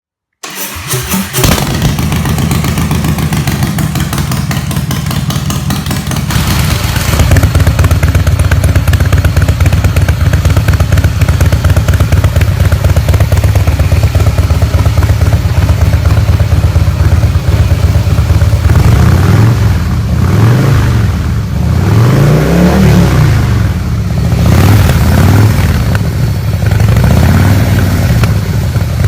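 Harley-Davidson V-twin motorcycle running loud through its exhaust, starting sharply near the beginning and idling steadily, louder from about six seconds in. In the last ten seconds the throttle is blipped several times, the engine note rising and falling with each rev.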